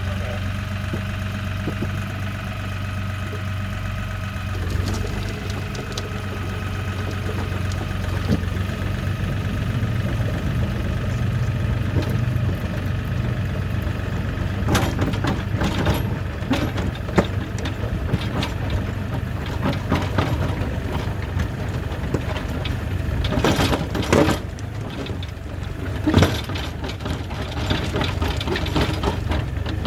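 LS MT235 compact tractor's diesel engine running steadily, with a series of sharp metallic knocks and clanks in the second half, the two loudest near the end.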